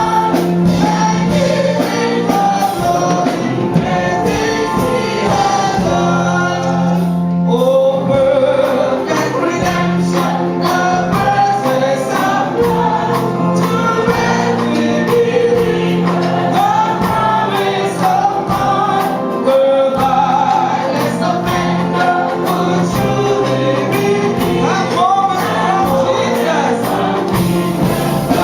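Gospel choir singing with instrumental accompaniment, over sustained bass notes and a steady percussive beat.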